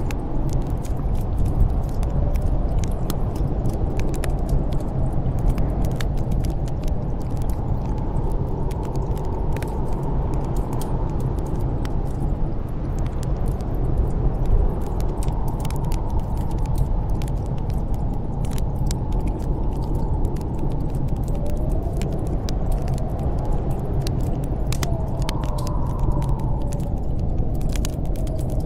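Snowstorm wind blowing steadily with a deep rumble and a faint howl that wavers up and down in pitch, over a wood fire in a fireplace crackling and popping with many small sharp snaps.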